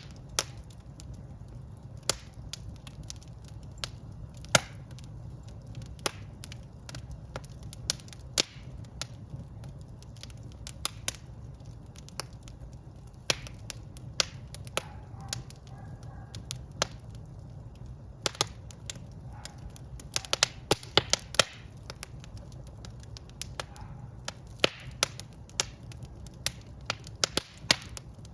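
Wood fire crackling in a fireplace: irregular sharp pops and snaps over a steady low rumble of the flames, with a quick flurry of pops about two-thirds of the way through.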